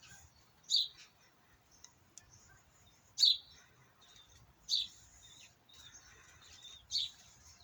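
A small bird chirping: four short, high calls a couple of seconds apart, each dropping quickly in pitch.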